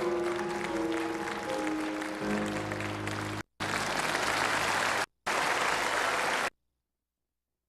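Cable television audio: a programme's music with a loud hiss or crackle over it, cutting out abruptly twice and then dropping to dead silence about six and a half seconds in. The uploader takes these disturbances for interference in the TV signal.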